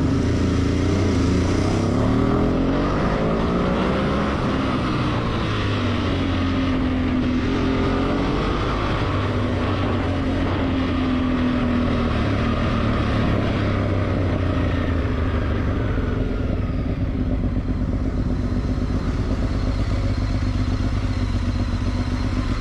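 Motorcycle engine running under way, its pitch rising and falling as the bike speeds up and eases off, then holding a steadier note for the last several seconds, over a constant low rumble.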